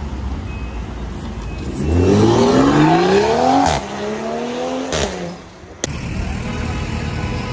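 A car engine accelerating hard over street traffic noise: its pitch climbs for about two seconds, drops at a gear change, climbs again, then falls away.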